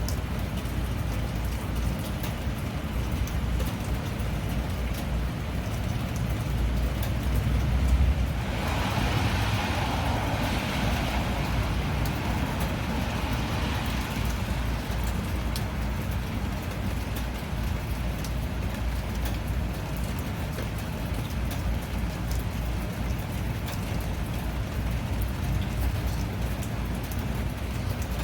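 Steady rain, with thin drop ticks over a deep continuous rumble. About eight seconds in, a swell of louder hiss rises and fades away over several seconds.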